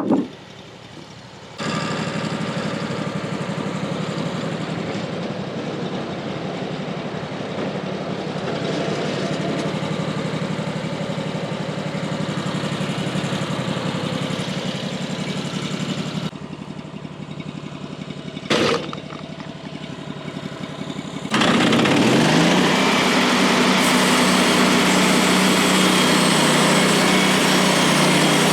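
Gas engine of a Woodland Mills HM136MAX portable bandsaw sawmill running steadily. It drops quieter a little past halfway, with one short sharp knock, then revs up about three quarters of the way through and runs louder and higher.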